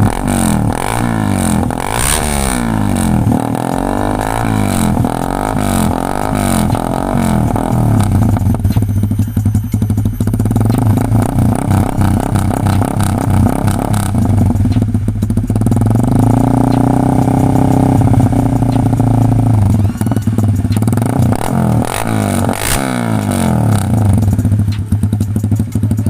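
Honda Sonic 150R's single-cylinder engine breathing through an aftermarket SC Project-style exhaust, revved in neutral. It starts with a run of quick throttle blips about once a second, then idles steadily, is held at higher revs for a few seconds, gets two more blips, and drops back to idle.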